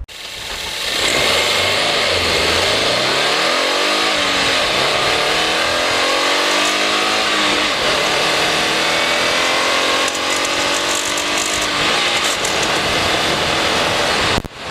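2015 Subaru WRX's turbocharged 2.0-litre flat-four, picked up by a microphone in the engine bay, pulling hard: the engine note climbs in pitch, drops back at gear changes, and climbs again over a strong rush of air and road noise.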